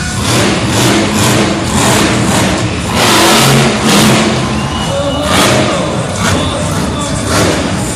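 Monster truck engine revving hard in repeated surges, with music underneath.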